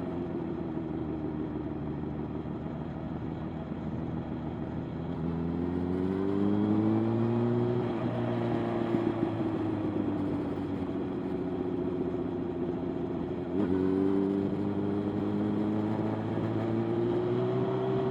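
Motorcycle engine running under way, its revs climbing a few seconds in, then a sudden drop in pitch about three-quarters through, like a gear change, followed by a slow climb again.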